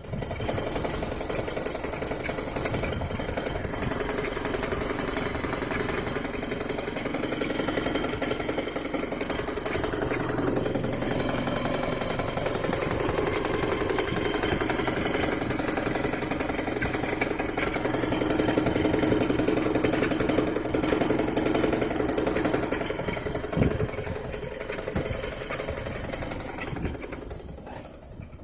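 Mitsubishi 4G93 GDI 1.8-litre four-cylinder petrol engine idling warm with a rapid knock, the knock that appeared after refuelling and shows at idle with a gear engaged. One sharper click about 24 seconds in, and the sound drops off near the end.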